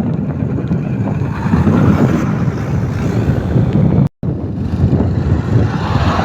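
A truck engine running, with wind buffeting the microphone; the sound cuts out completely for a moment about four seconds in.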